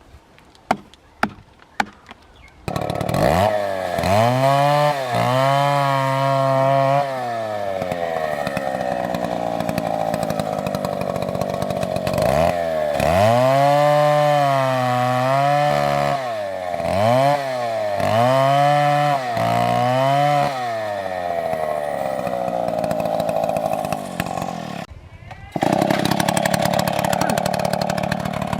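A few sharp knocks, then a two-stroke chainsaw starts about three seconds in and revs up and down repeatedly, with steadier stretches between the revs. Near the end the sound drops briefly, then comes back at full loudness.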